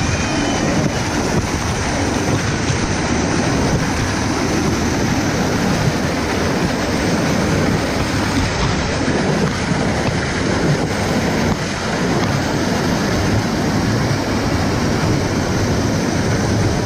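Steady rush of a waterfall's falling water, an even roar with no breaks.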